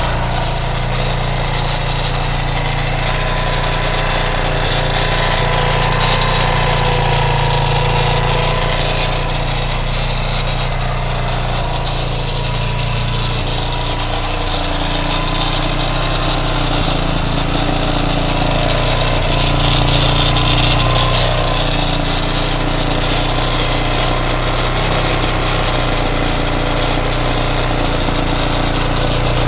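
A freshly rebuilt 230 cc motorcycle engine with new rings, on its first run in years, idling steadily without load.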